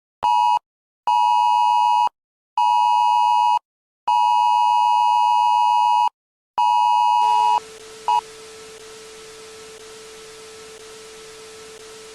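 Emergency-alert-style warning beeps: five loud two-note electronic tones of uneven length, the fourth the longest. They give way after about seven seconds to a steady static hiss with a low hum, broken by one short blip, which then cuts off suddenly.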